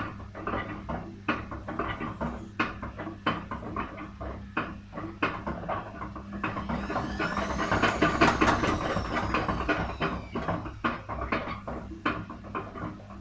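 Aspes washing machine on its spin cycle, the drum knocking and clattering irregularly over a steady low hum, with a whine that rises and then falls in the middle. The repairer says this noise is very characteristic of a broken drum shaft.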